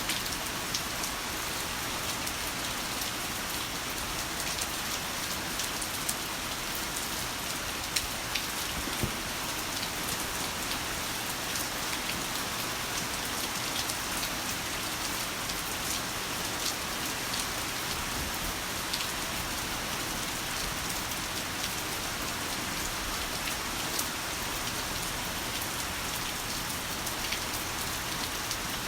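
Heavy rain falling steadily, with many sharp individual drop hits scattered through it.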